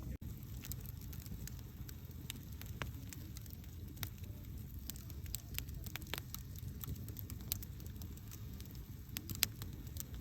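Wood campfire burning: a steady low rumble of the flames with irregular sharp crackles and pops, one louder pop near the end.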